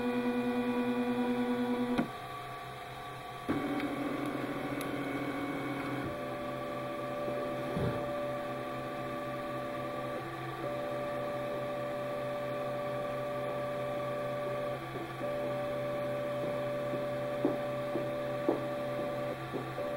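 MakerBot Replicator FDM 3D printer's stepper motors whining at the start of a print: steady pitched tones that switch pitch abruptly every few seconds as the axes move, over a constant hum, with a couple of short clicks near the end.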